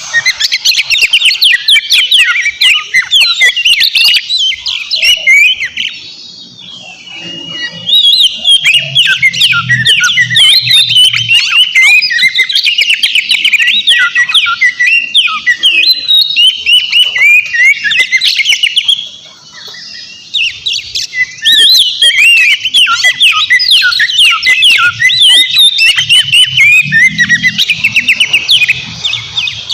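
Oriental magpie-robin singing a loud, fast, unbroken run of varied whistles and chattering notes, pausing briefly twice.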